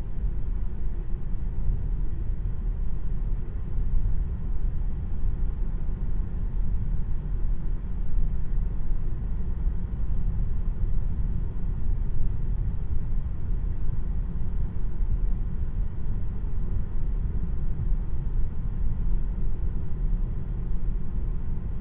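Steady low rumble of road and tyre noise inside the cabin of a 2026 Tesla Model 3 on the move, with no engine sound from the electric drivetrain.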